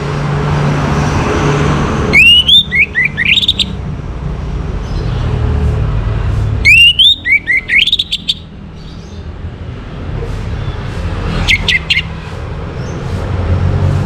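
Orange-headed thrush singing in separate bursts of quick, rising-and-falling whistled notes: longer phrases about two and seven seconds in, and a short one near twelve seconds. A steady low rumble runs underneath.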